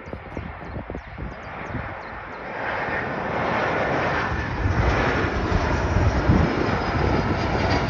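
Jet airliner passing close, its engine noise swelling from a faint rush to loud about halfway through and staying loud, with a thin high whine coming in near the end.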